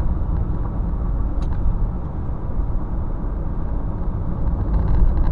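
Car being driven: a steady low road and engine rumble, with a faint click about a second and a half in.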